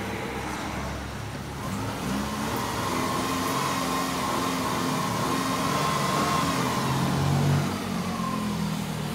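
Subaru Impreza 1.6's flat-four engine running cold, just switched over from petrol to LPG. The engine note grows a little from about two seconds in and eases back near the end, with a thin high tone over it that slides down and fades out.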